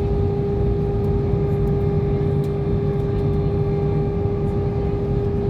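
Airliner in descent for landing, heard as a steady drone of engines and airflow: a low rumble with one constant held tone above it.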